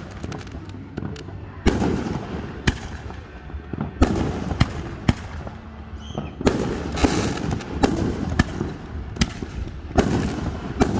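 Aerial fireworks bursting: about a dozen sharp bangs at irregular intervals, with crackling between them.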